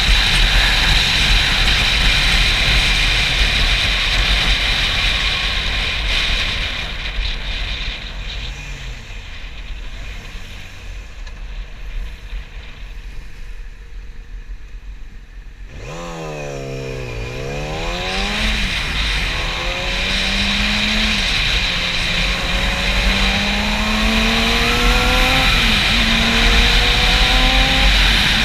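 Yamaha YZF-R6 inline-four sport bike: wind noise on the camera microphone dies down as the bike slows to near idle, then a little past halfway the engine is revved sharply and the bike pulls away, the engine note climbing and dropping back several times as it shifts up through the gears while the wind noise rises again.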